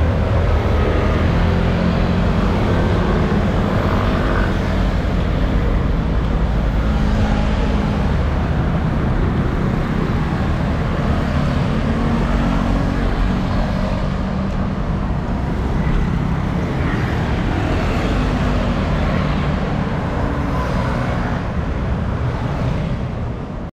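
Heavy wind rumble on the microphone while riding, with road and traffic noise underneath. It is loud and steady and cuts off abruptly at the very end.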